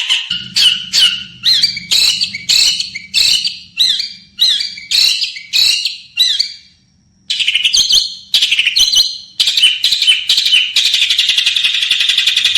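Small songbird calling in a rapid series of short, sharp notes, about two a second. There is a brief pause near the middle, and near the end the notes run together into a fast, continuous chatter.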